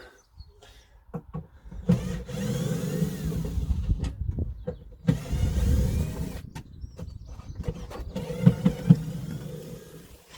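A cordless power tool's electric motor running in three bursts of a couple of seconds each, with short stops between them.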